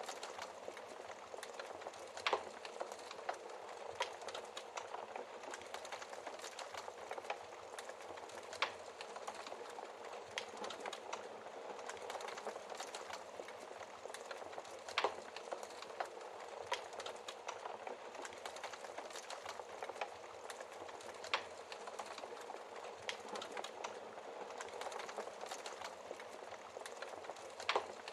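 Wood fire burning in a fireplace: a steady hiss with frequent sharp crackles and pops, a few of them louder.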